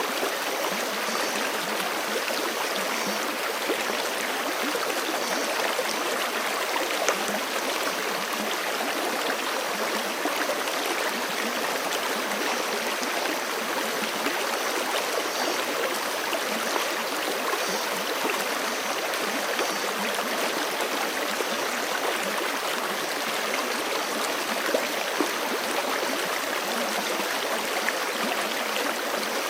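Forest creek flowing steadily over rocks: a continuous rushing and splashing of water.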